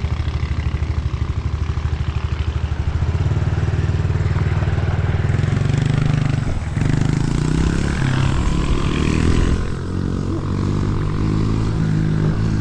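Small gas mini bike engine running: it chugs with a rapid, even pulse at low revs for the first few seconds, then revs up and down as the throttle is worked.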